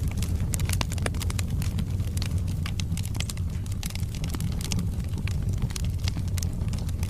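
Burning wood fire crackling, with frequent sharp pops and snaps over a steady low rumble.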